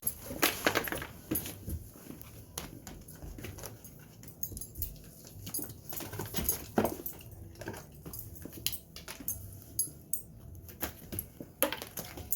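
A dog moving about close by, making scattered short clicks and taps, the loudest three about half a second in, around the middle and near the end.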